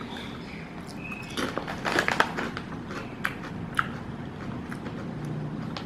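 Mouth crunching potato chips: a cluster of crisp crunches about a second and a half in, then a few single crunches.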